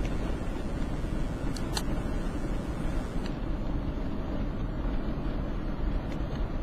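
Steady low rumble of road and engine noise inside a moving car, with a few faint clicks.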